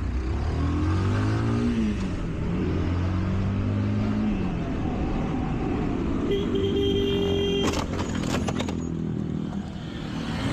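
Motorcycle engine running, its pitch rising and falling with the throttle, then a horn sounding steadily for about a second and a half, and then a crash: several sharp knocks and clatter about eight seconds in.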